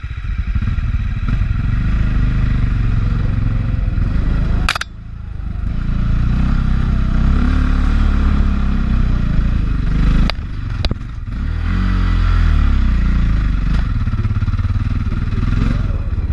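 A 450 four-stroke enduro dirt bike engine running under throttle on a trail, revs rising and falling. The sound dips briefly, with sharp clicks, about five seconds in and again around ten to eleven seconds, as the throttle is rolled off or a gear is changed.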